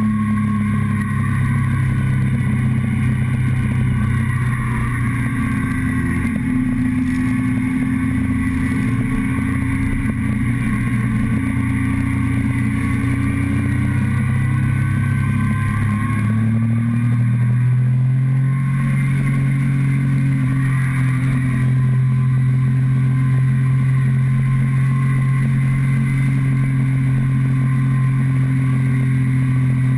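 Motorcycle engine running steadily under way, heard close up from the fuel tank, with its pitch settling lower in the first seconds and climbing to a higher steady note about halfway through as the bike speeds up.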